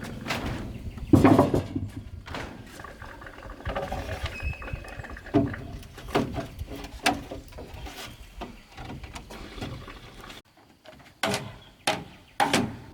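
Pigs grunting, with a series of short sharp knocks, three of them close together near the end.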